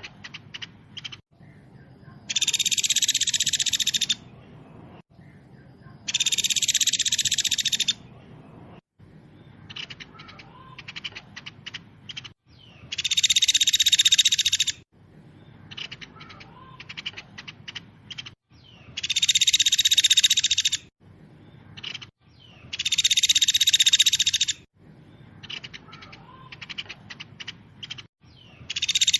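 Masteran songbird recording: a loud, very fast, dense trill about two seconds long, heard six times. Between the trills come quick runs of short chips.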